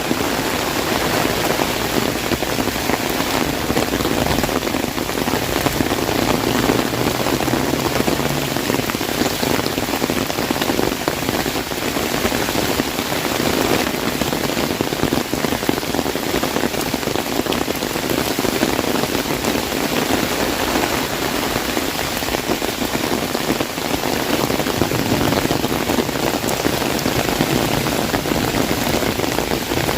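Heavy rain pattering steadily on an umbrella overhead, a dense, unbroken hiss of drops.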